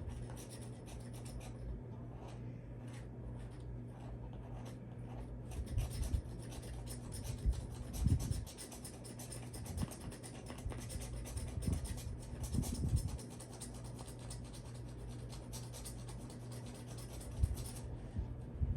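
Rapid scraping strokes on a scratch-off bonus card, rubbing the coating off to reveal a redemption code, with a few soft low bumps.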